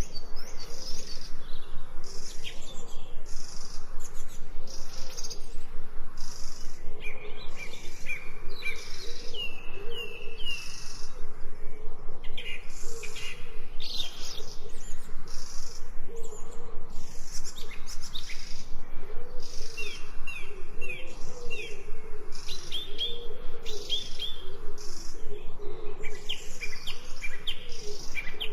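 Birds chirping and singing in a chorus of short repeated chirps and quick whistled notes, over a high pulsing sound that repeats about twice a second and lower warbling calls.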